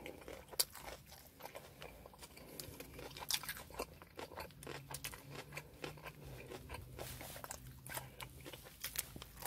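Close-up chewing of a bitten sandwich: scattered soft mouth clicks, smacks and small crunches.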